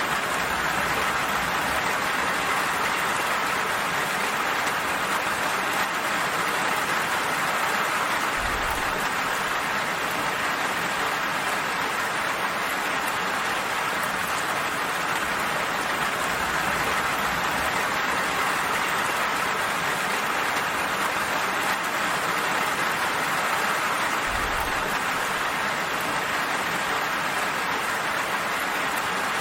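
Steady rain falling, an even hiss of drops that does not let up, with two brief low rumbles, one about a third of the way in and one near the end.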